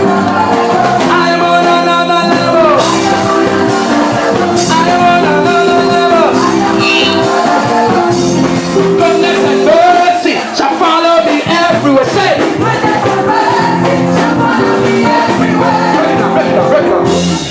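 Live gospel music: a band playing steady chords with a singer's voice over them.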